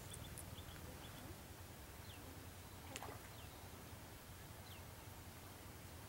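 Faint rural ambience: a bird repeating a short, falling high call every second or so, over a steady low rumble, with a single sharp click about three seconds in.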